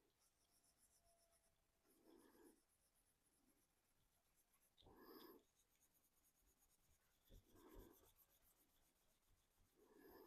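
Faint brush strokes scrubbing paint over a 3D-printed plastic body shell, one short stroke about every two and a half seconds.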